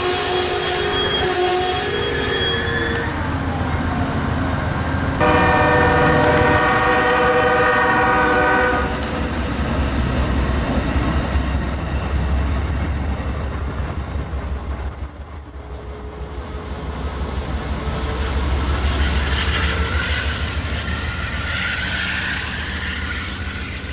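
Amtrak passenger train passing. Its multi-note horn sounds at first with a falling pitch, then blows again for about three and a half seconds starting about five seconds in. After that the passenger cars' wheels rumble and clatter over the rail joints as the train draws away, with a hiss near the end.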